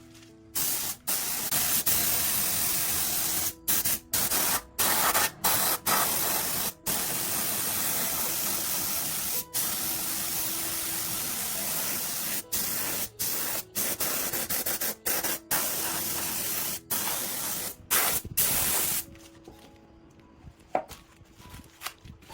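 Pressurized spray hissing in long bursts with many short breaks, stopping about three seconds before the end, over faint background music.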